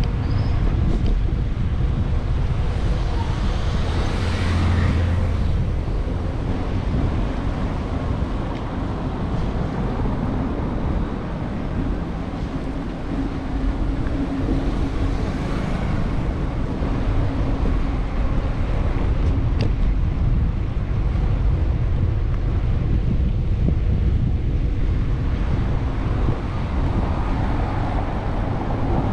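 Wind rumbling on the microphone of a bicycle-mounted camera while riding, mixed with road traffic noise from cars passing on the street. The traffic swells a few times.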